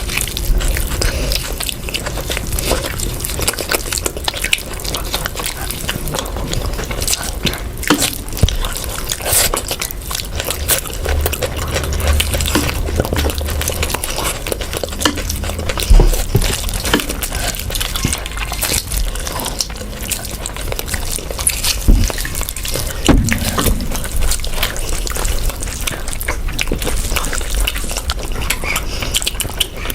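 Wet eating sounds of someone chewing curry and rice: a continual run of small moist clicks and smacks.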